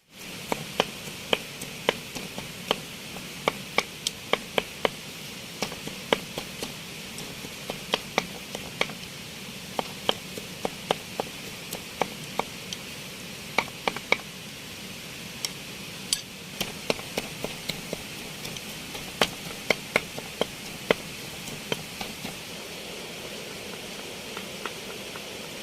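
Banana blossom being prepared by hand for a pounded salad: a run of sharp knocks at an uneven pace, often one to three a second with short pauses, over a steady hiss.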